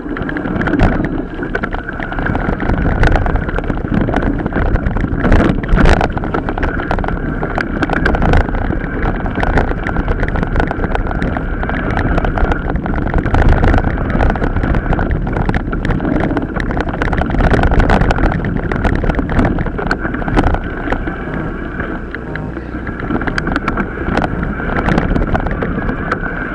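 Mountain bike riding off-road: a continuous rumble of tyres over rough ground with frequent rattles and knocks from the bike, and wind on the microphone.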